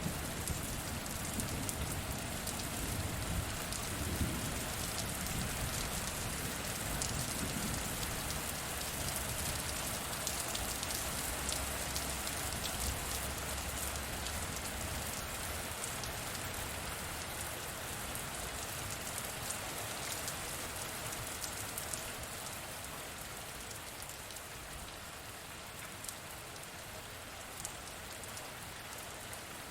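Steady rain falling, an even hiss with scattered drop ticks, with a low rumble of thunder dying away in the first half.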